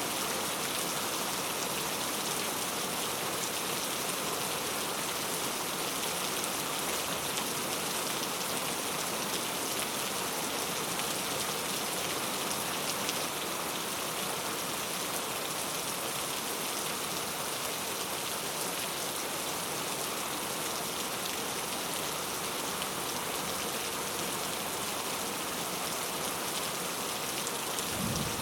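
Steady, even rain falling on surfaces. A low rumble of thunder begins right at the end.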